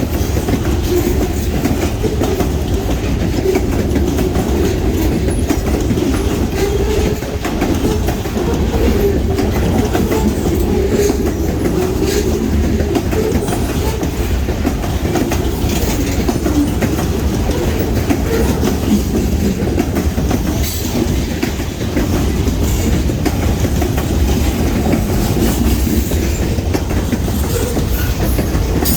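DeQueen and Eastern Railroad freight train rolling past, a steady heavy rumble of wheels on rail with a clickety-clack of wheels over rail joints.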